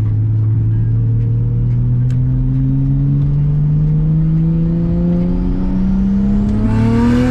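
Nissan Stagea's engine accelerating hard under load in one gear, its pitch climbing steadily for about seven seconds. A thin high whine rises with it near the end, and the revs drop right at the end as the gear changes.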